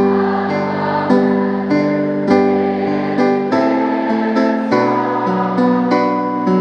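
Instrumental music: an acoustic guitar plucking chords at an even, unhurried pace, a new chord struck a little more than once a second.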